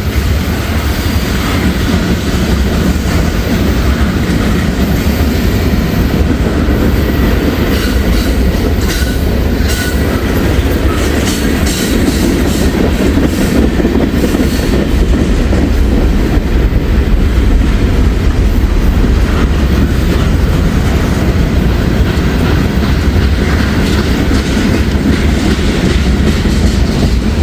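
Freight train cars rolling past close by: a steady loud rumble with the wheels clacking over rail joints.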